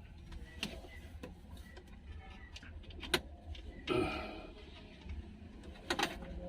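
Scattered light clicks and taps of hand tools on metal, with a louder ringing clink about four seconds in.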